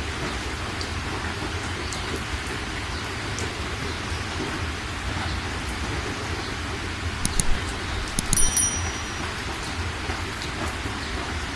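Heavy rain falling steadily. About two-thirds of the way in come a few sharp clicks, one with a short high ring.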